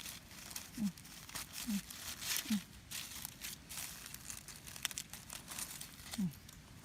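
Dry leaf litter rustling and crinkling in irregular crackles while mushrooms are picked and handled, with four short, low, falling sounds.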